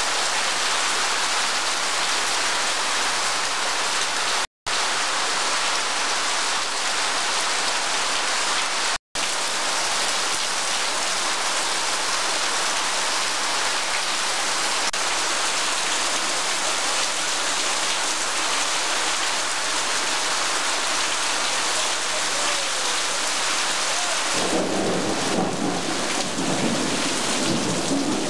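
Steady rain falling on clay roof tiles and a concrete floor, an even hiss that cuts out twice, briefly, in the first ten seconds. Near the end the sound grows fuller and lower.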